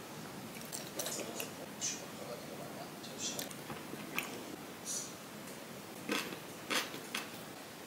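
Close-up eating sounds: a person chewing sticky, chewy rice cakes in thick sauce, with short wet mouth smacks and clicks scattered through, the loudest near the end.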